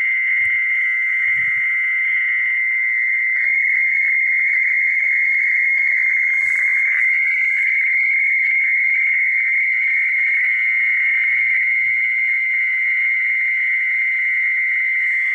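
A steady, shrill chorus of night animals, one unbroken high drone with no let-up.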